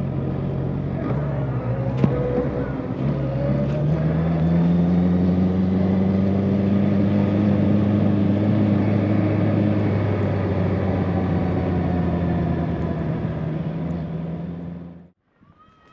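2024 Honda CB650R inline-four motorcycle engine running under way, with a sharp click about two seconds in. The engine pitch then rises as the bike accelerates and holds fairly steady. The sound cuts off suddenly near the end.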